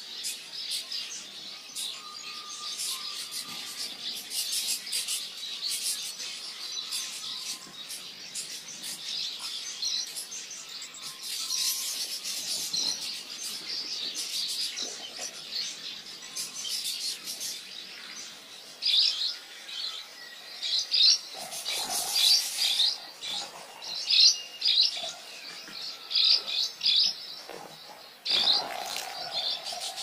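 Many birds chirping and twittering together in a continuous chorus, with louder bursts of quick chirps in the second half.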